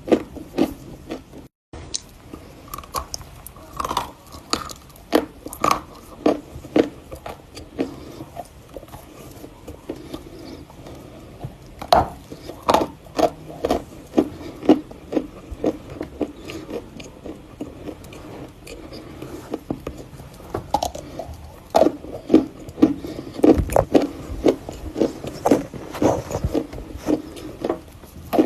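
Close-up crunching of Volokonovka edible chalk being bitten and chewed: sharp, crisp cracks in irregular clusters with short pauses between them. There is a brief dropout to silence about a second and a half in.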